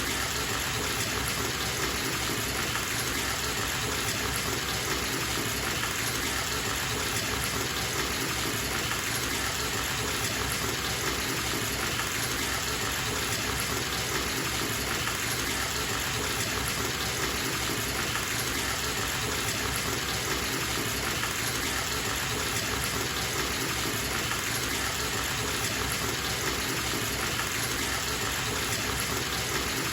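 Bathtub filling from a running tap: a steady, even gush of water into the tub.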